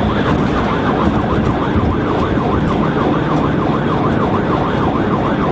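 Police cruiser's siren in a rapid yelp, its pitch sweeping up and down a few times a second, over the engine and road noise of a car at highway speed during a pursuit.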